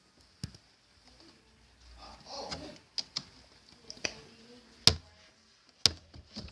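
Faint steady hiss of rain, broken by irregular sharp taps a second or so apart, the loudest two near the end.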